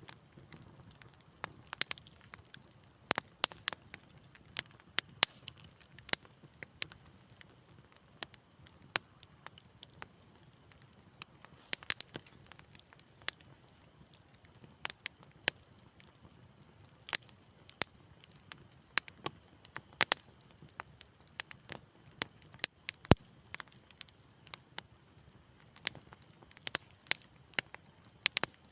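Wood fire crackling in a fireplace: irregular sharp pops and snaps over a faint low hiss, with one louder crack about two-thirds of the way through.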